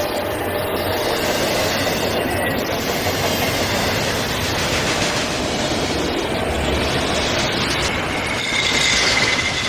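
Freight train rolling past close by: a steady rumble of wheels on rail, with a thin high wheel squeal that comes and goes and grows louder near the end.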